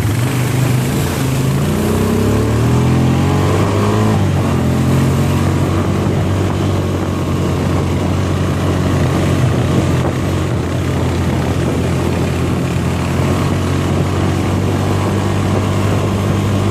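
Four-wheeler (ATV) engine running under way: it revs up for a couple of seconds, drops back about four seconds in, then runs steadily.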